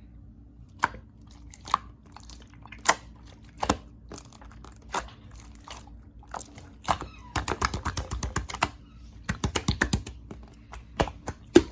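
Clear slime being squeezed and pressed by hand, giving sharp clicking pops as trapped air bursts: single pops at first, then two quick runs of pops in the middle and toward the end.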